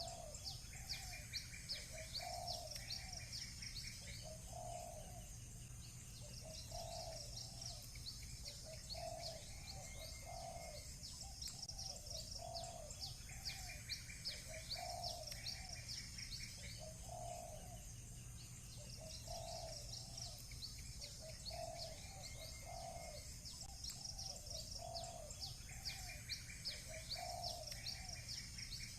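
Rural birdsong: a dove coos over and over, about once a second, while small birds chirp quickly and high, and a short trill comes back every dozen seconds or so. A steady low rumble runs underneath.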